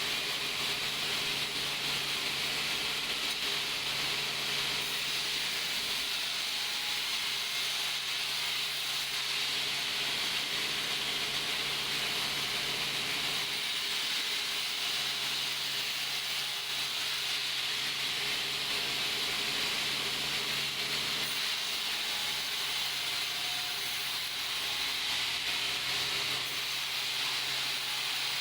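Sawmill machinery running: a steady hiss with a low motor hum underneath, the hum dropping out briefly about halfway through and again later.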